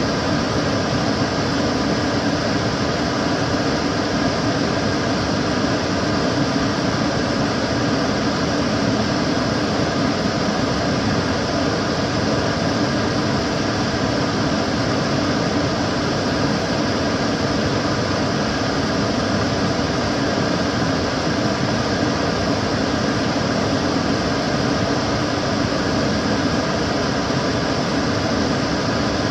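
Kitchen cooker hood's extractor fan running steadily, a constant whooshing rush of air with a faint hum and no changes.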